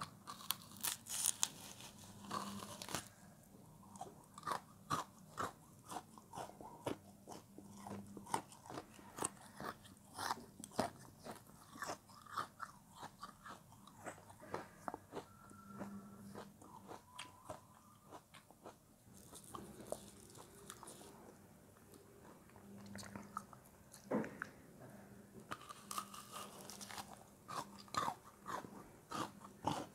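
Close-up chewing and biting of a crunchy frozen chunk: a continuous run of sharp, crisp crunches, with busier bursts of bites near the start and near the end.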